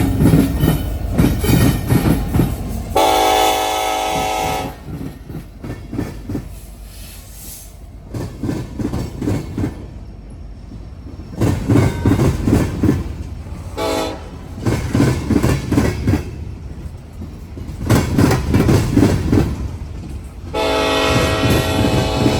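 Freight train passing with its wheels clattering in rhythmic bursts, and its air horn sounding a long blast about three seconds in, a short blast around fourteen seconds, and another long blast starting near the end.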